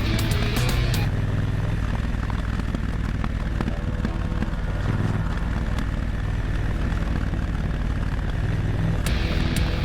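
Motorcycle engine running steadily at cruising speed on the road. Background music with a beat plays over it for about the first second and comes back near the end.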